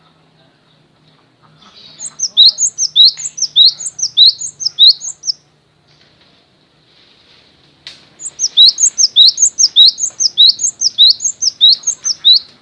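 A songbird singing in two bouts of quickly repeated, identical high notes, each a falling whistle, about three a second.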